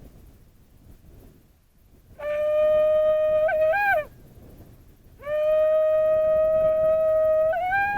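Shofar blown in two long held blasts, the second longer than the first, each ending with a sharp upward break in pitch.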